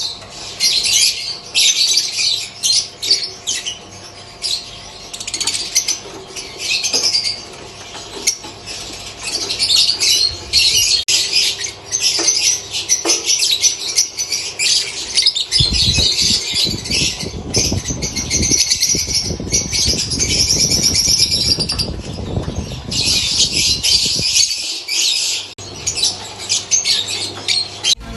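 Lovebirds chattering with a dense run of rapid, high-pitched chirps and squawks. From about halfway, a low rustling noise sits under the calls for several seconds.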